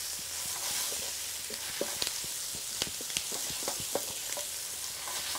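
Chicken, capsicum and onion stir-frying in oil in a hot pan: a steady sizzle, with frequent short scrapes and knocks as a wooden spatula stirs and turns the food against the pan.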